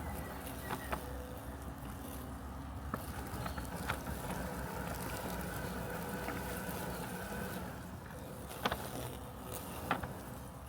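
Robotic lawn mower running with a steady mechanical hum, a few short sharp clicks scattered through it.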